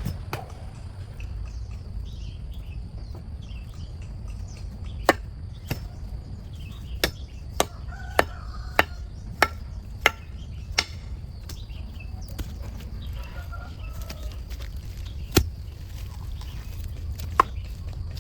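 About a dozen sharp chopping blows of a tool striking wood, irregularly spaced, starting about five seconds in, over a steady low rumble.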